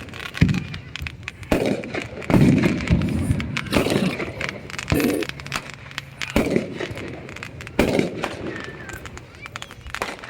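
Fireworks going off: irregular sharp bangs and pops a second or so apart, with a quicker run of small crackling pops near the end.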